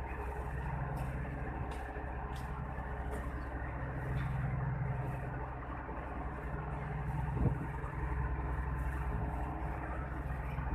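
A large diesel engine running steadily with a low, even drone, typical of a ferry's engines heard on board.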